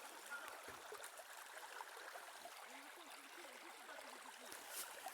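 Faint running water, a steady low trickle like a small stream.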